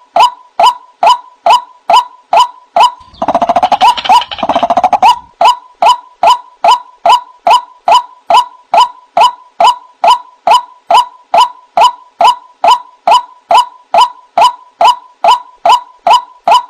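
White-breasted waterhen calls played as a bird-trap lure: short calls repeated steadily about two and a half times a second, broken about three seconds in by a fast two-part run of rapid notes.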